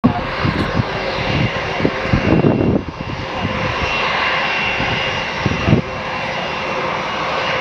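Boeing 737-800's CFM56-7B jet engines running on approach to land: a steady roar with a held high fan whine. Irregular gusts of wind buffet the microphone, loudest about two to three seconds in and again near six seconds.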